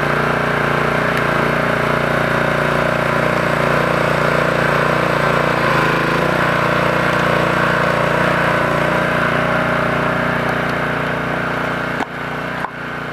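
Small gasoline engine of an engine-driven hydraulic log splitter running steadily, its pitch shifting slightly about halfway. Near the end the level drops with two sharp clicks.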